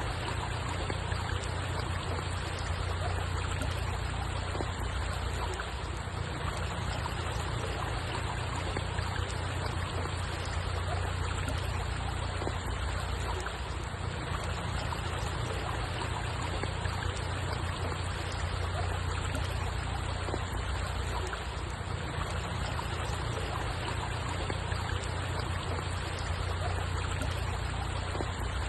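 Steady rushing water, even and unbroken, with a strong low rumble under it and no separate splashes.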